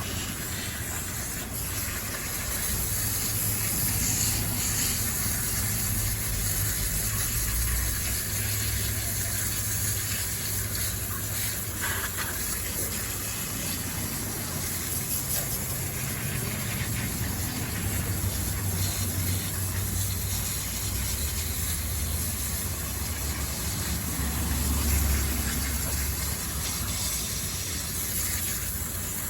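Water spraying in a steady hiss onto a dirty RC car, washing it down with soapy water or a hose.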